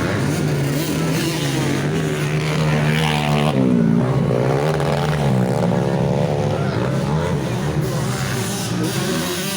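Motocross dirt bike engines running and revving, the pitch rising and falling several times over a steady low drone.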